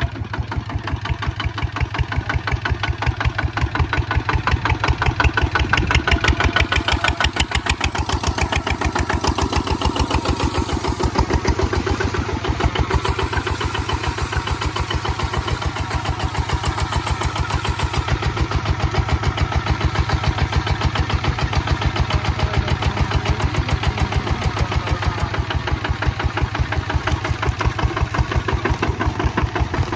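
Kubota ZT 155 DI single-cylinder diesel engine running steadily, its firing pulses making an even, rapid thudding beat.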